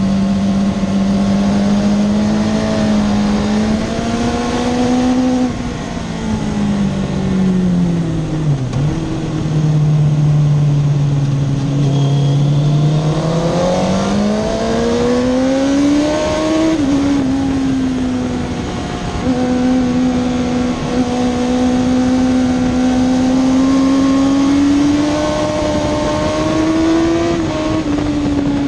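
Suzuki GSX-R 1000 K2's inline-four engine at full race pace: its pitch falls in steps about six to nine seconds in as the rider brakes and shifts down, stays low through the corner, then climbs hard under acceleration, dips once at an upshift around seventeen seconds, and holds high down the straight, over a steady rush of wind.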